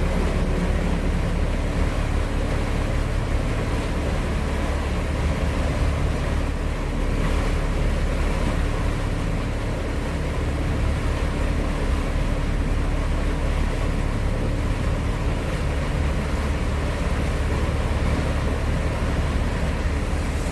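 A motorboat's engines running steadily while underway at speed, a constant low hum mixed with the rush of wind and water.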